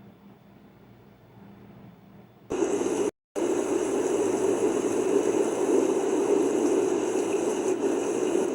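Loud, steady rush of floodwater, starting abruptly a couple of seconds in after a faint hiss and briefly cutting out just after.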